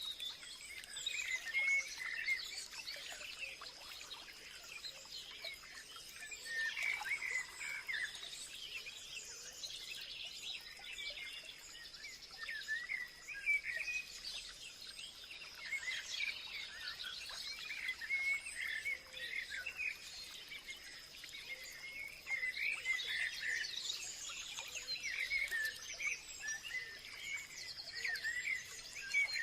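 Several birds chirping and singing at once, with short twittering calls overlapping without a break, over a thin, steady, high-pitched tone.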